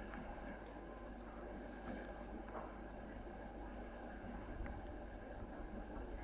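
Small songbird giving short, thin, high-pitched calls, each a quick downward slide. About six come at uneven gaps, with the loudest almost two seconds in, over a soft steady background hiss.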